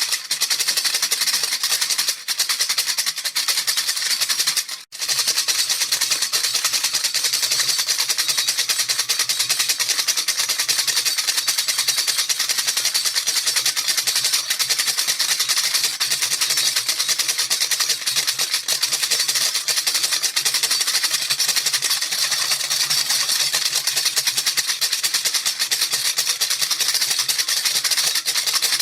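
A baby rattle shaken continuously and fast, making a dense, hissy rattle with a brief break about five seconds in.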